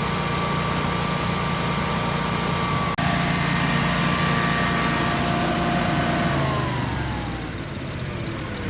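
Generac 16kW standby generator engine running at steady speed, then shut off about six seconds in, its hum falling in pitch as it winds down.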